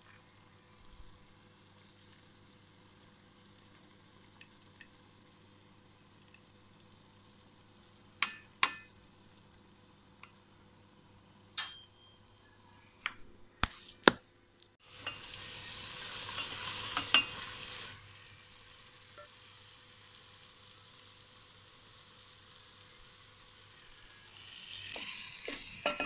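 Chicken and potato curry sizzling in a pot on the stove, once for about three seconds just past the middle and again near the end. It follows a run of sharp clinks and knocks of a utensil or lid against the pot.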